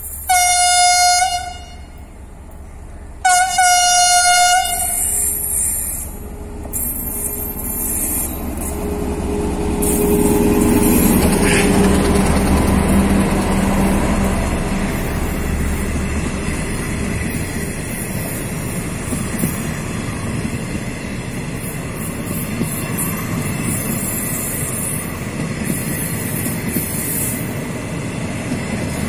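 Two-tone-free air horn of a KTM Class 26 diesel locomotive sounding two blasts, the second longer, then the locomotive's engine rumble swelling as it passes close by, followed by the steady rumble and clatter of passenger coaches rolling past on the track.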